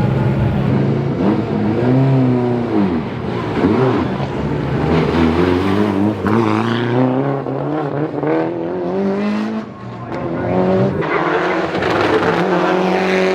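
Rally car engine revving hard, its pitch rising and falling several times as it accelerates and backs off.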